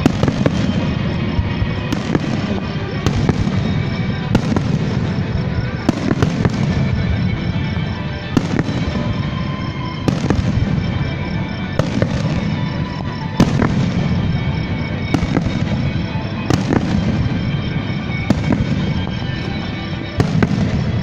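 Fireworks bursting every second or two with sharp bangs, over music that plays throughout.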